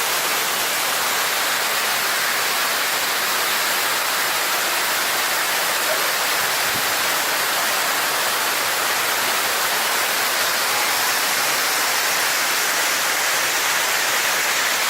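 A waterfall rushing, a steady hiss of falling water with no change in level.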